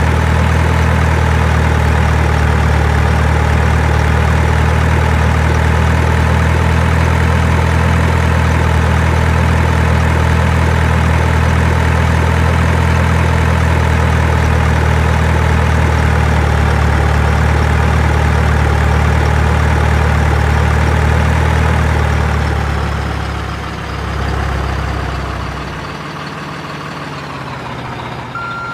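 Truck engine idling sound, a steady low diesel-like running that holds for about twenty seconds, then drops away and runs quieter for the last several seconds.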